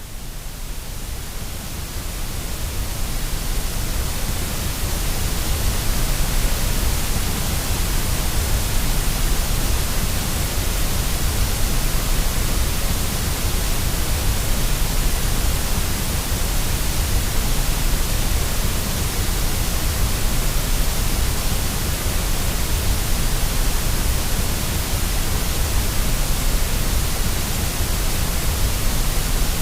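Steady white-noise hiss for baby sleep, a rushing sound spread evenly from deep rumble to high hiss, heaviest in the low end. It swells up over the first few seconds, then holds level.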